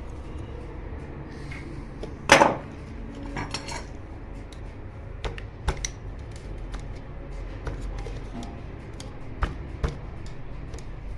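Metal tools and water-pump parts being handled on a workbench: a sharp knock about two seconds in, a jangling metallic clatter a second later, then scattered light clicks and taps.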